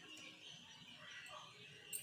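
Near silence: faint room tone, with one short click just before the end.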